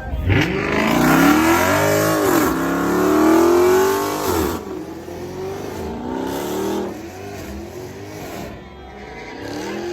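Car engine revved hard during a burnout, with the hiss of spinning tyres. Two long climbing revs fill the first four seconds and then drop off, followed by shorter, lighter revs.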